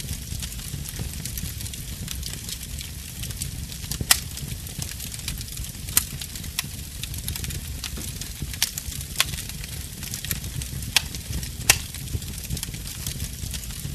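Wood fire in a fireplace crackling over a steady low rumble, with irregular sharp pops, a few louder ones standing out, about four, six, nine and eleven seconds in.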